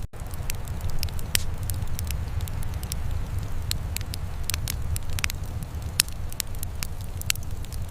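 Wood fire crackling, with irregular sharp pops and snaps over a steady low rumble. The sound cuts out for an instant just after it begins.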